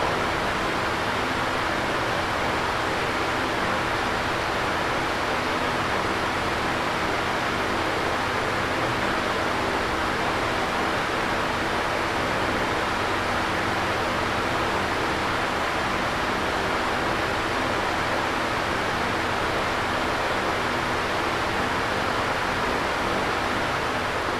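Electric fan running: a steady rush of air with a faint, even motor hum underneath, beginning to fade out at the very end.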